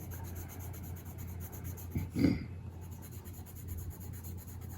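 Colored pencil scratching across paper in fine, quick repeated strokes, with a brief soft sound from the colorist about two seconds in.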